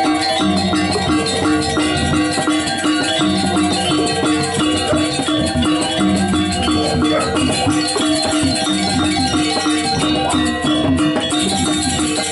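Balinese gamelan music: struck bronze metallophones ringing out many pitched notes in a fast, busy rhythm, with bright metallic cymbal-like clashing over the top.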